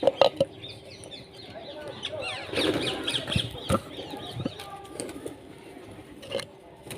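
A flock of small birds chirping together in many quick, overlapping calls, busiest in the middle. A few sharp knocks come just after the start.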